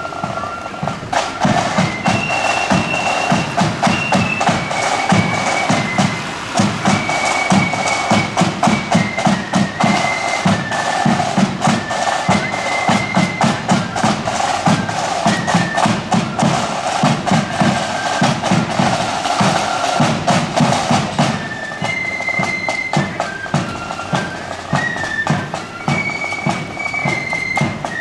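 Marching flute band playing a march: a high flute melody over bass and side drums beating steadily. The drumming is heavy for most of the time and lightens near the end.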